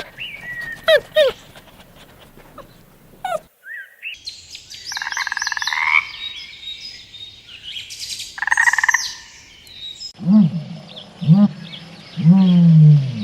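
Animal calls in three quick cuts. First a few short calls falling in pitch, then two bursts of pulsed croaking with high chirps above them, then three lower calls, each falling in pitch, the last one the longest and loudest near the end.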